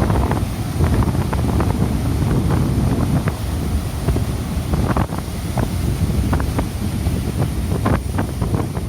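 Strong wind buffeting the microphone in a continuous low rumble with crackling gusts, over heavy surf on a sea whipped up ahead of an approaching typhoon.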